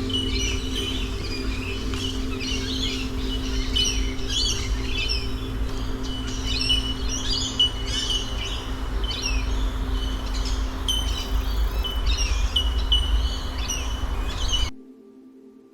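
Wild birds chirping and calling over and over in short high notes, with a low rumble beneath and a soft, steady ambient music drone. About a second before the end the birdsong and rumble cut off suddenly, leaving only the quiet music.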